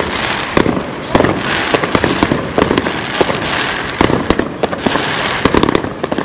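Fireworks going off: a rapid, irregular string of sharp bangs and cracks over a continuous crackling hiss.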